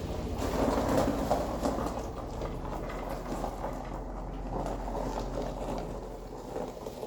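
2009 Ford Sport Trac pickup's engine running at low speed while the truck is maneuvered, a steady low drone under rougher noise.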